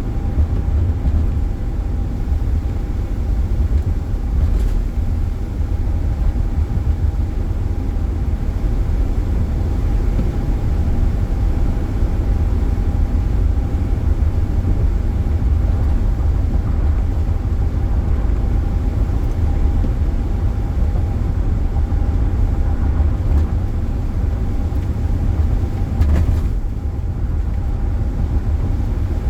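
Steady low rumble of a car driving at speed, heard from inside the cabin, with a faint steady whine running through it.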